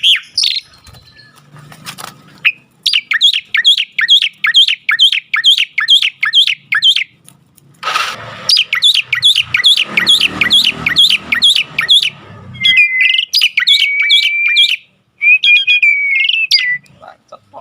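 Jalak (starling kept as a songbird) calling in runs of sharp, repeated chirps, about three a second, then a few longer whistled notes near the end. A brief rushing noise comes about eight seconds in.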